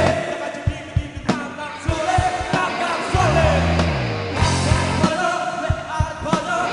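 Live band music with a singer over a steady drum beat and a bass line.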